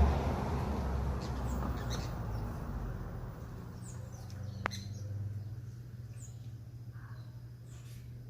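Small birds giving short, high chirps, scattered every second or two, over a low rumble of a passing vehicle that fades away in the first few seconds.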